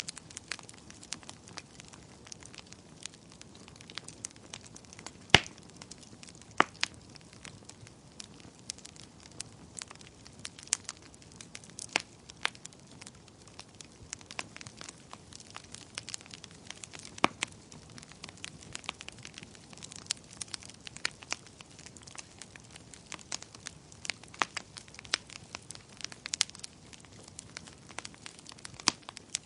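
Wood fire crackling: irregular sharp pops and snaps over a low hiss, with a louder pop about five seconds in.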